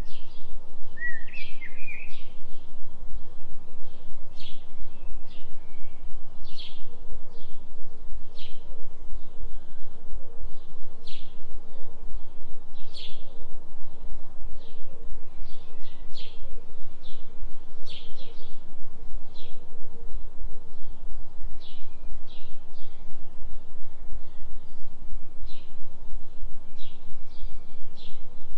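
Low droning tone whose loudness pulses about three times a second, a 3 Hz delta binaural beat, under forest birds chirping in short repeated notes, with a gliding call about a second in.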